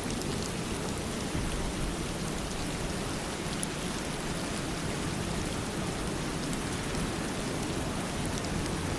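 Steady, even rain falling, with scattered drops ticking.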